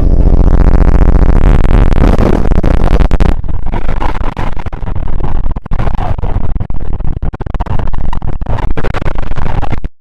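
Sudden, extremely loud, heavily distorted jump-scare noise. A harsh buzzing tone runs for about three seconds, then turns to crackling, clipped noise that cuts off abruptly.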